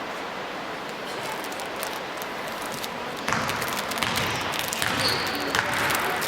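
Basketball being dribbled and bounced on a gym floor, sharp clicks over a steady hall din that gets louder about three seconds in.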